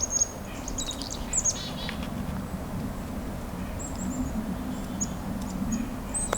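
Black-capped chickadees calling: thin high notes, with a burst of buzzy notes about a second in, and short runs of high call notes about four seconds in and again near the end.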